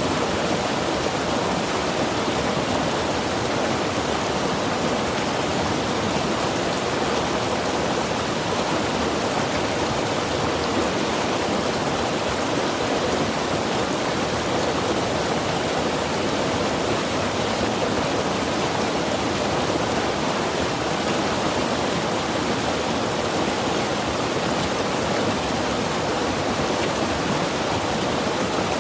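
Mountain river rushing steadily over rocks, a constant even flow of water with no breaks.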